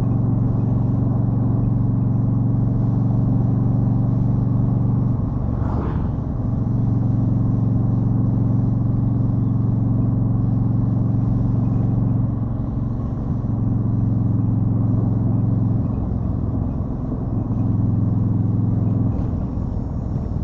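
2013 Yamaha Stryker's V-twin engine running at steady speed under the rider, with a rushing noise over it. The engine note drops off and comes back several times, about 5, 12, 16 and 19 seconds in. There is a brief sharp sound about six seconds in.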